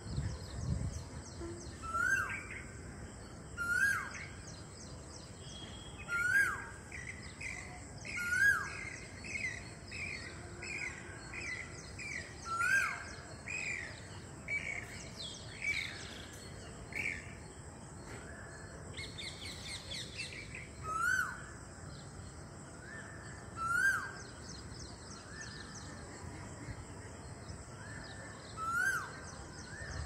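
Birds calling: one short call that rises and then drops, repeated about every two seconds, and in the middle a quicker run of higher chirps. A faint steady high whine runs underneath.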